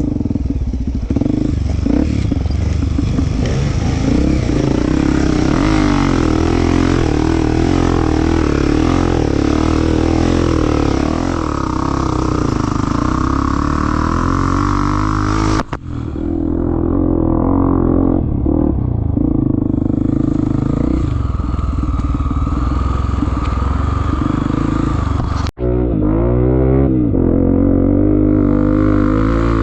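Off-road trail motorcycle engine running and revving, rising and falling in pitch, with the sound cutting out abruptly for an instant twice.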